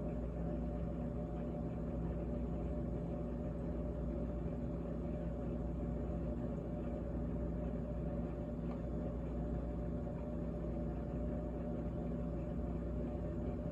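GE GTH18XCTZRBB refrigerator running: a steady, even hum of several tones over a low rumble.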